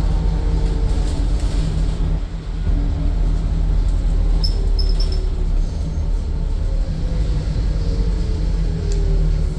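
Scania N230UD double-decker bus's diesel engine and drivetrain heard from on board while driving: a steady low rumble, with the engine note slowly falling in pitch in the second half. A few short high beeps sound about halfway through.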